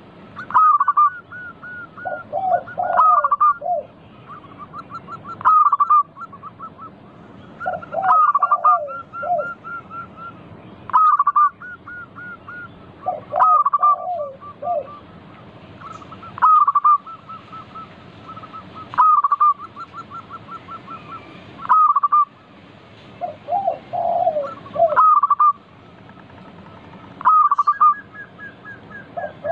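Zebra doves (perkutut) cooing in repeated phrases, one about every two and a half seconds, each phrase a few clear notes followed by lower ones, with a fast ticking trill between phrases.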